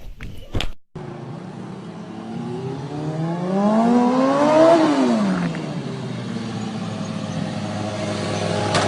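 Motorcycle engine revving, the pitch climbing over about two seconds and falling back quickly about halfway through, over a steady engine hum. A few short knocks come in the first second before the sound cuts abruptly.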